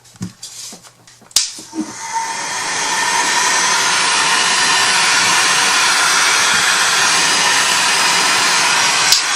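Hand-held hot-air blower switched on with a click about a second in, spinning up and then running steadily. It is switched off with a click near the end, typical of drying wet paint on a craft piece.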